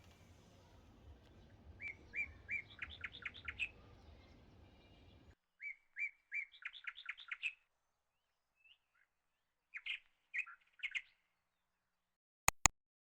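A songbird singing: two similar phrases, each a few even notes that run into a quick series of sweeping notes, then a few shorter calls. Two sharp clicks come near the end.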